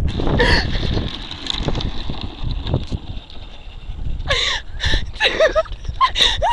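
Low rumble and wind buffeting the microphone during a ride down a hill, with short high-pitched yells that fall in pitch, once just after the start and several times in the last couple of seconds.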